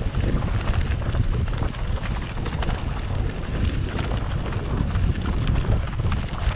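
A bicycle rolling fast over a packed-dirt and gravel trail, its tyres and frame rattling and clicking irregularly, with a steady rumble of wind on the handlebar-mounted camera's microphone.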